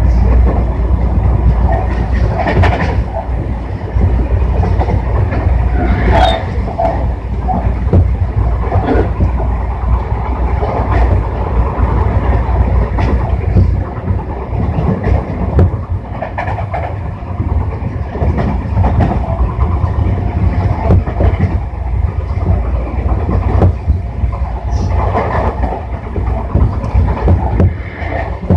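Running noise of a Tobu 60000-series electric train heard from inside the car: a steady low rumble of wheels on rail, with irregular clicks as the wheels pass over rail joints.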